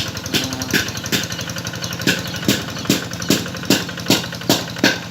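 Rice-paddy plowing tractor engine running steadily, with a sharp metallic knock repeating evenly about two to three times a second.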